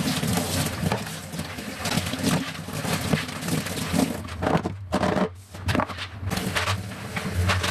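Cleaning and handling noises: irregular scraping and rubbing with light knocks, pausing briefly about five seconds in, over a low steady hum.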